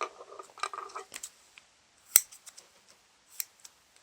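Butter slime being squished and worked by hand, with soft wet crackling through the first second, then a few sharp clicks, the loudest about two seconds in.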